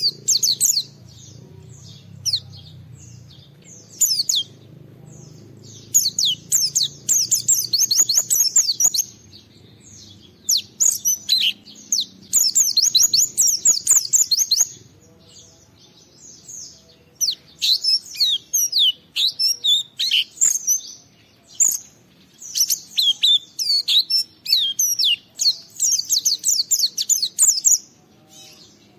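A white-eye (pleci) singing in its full 'gacor' song: rapid bursts of high, twittering, sweeping notes in phrases of one to three seconds, with short pauses between them.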